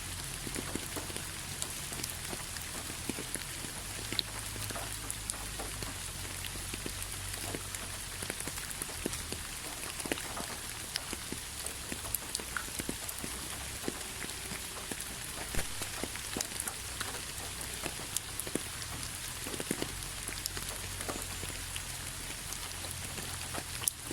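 Steady rain falling on a hard surface, with many separate drops ticking and splashing through an even hiss.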